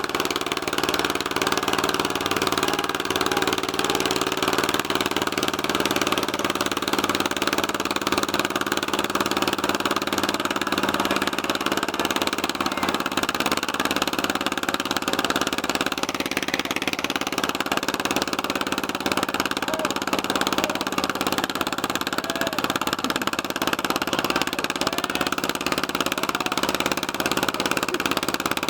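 Ursus C-330 tractor's two-cylinder diesel engine running at a steady speed with an even, unchanging note, hauling the weight sled in a tractor pull.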